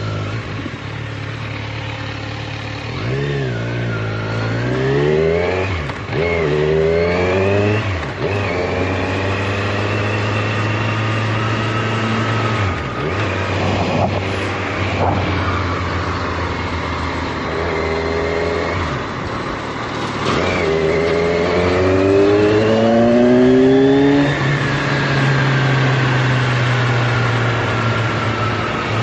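A road vehicle's engine running on the move and accelerating hard twice, its pitch climbing and falling back at each gear change.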